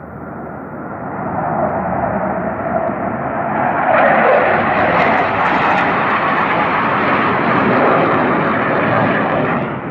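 Aircraft flying low overhead: the engine noise swells over the first few seconds, peaks about four seconds in with a falling pitch as it passes, and stays loud until near the end.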